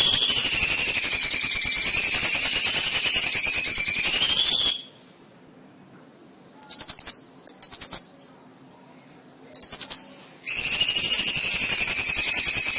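Cucak cungkok bird singing a loud, rapid, jingling trill that wavers up and down in pitch. It breaks off about five seconds in, gives three short bursts, then takes up the full song again near the end.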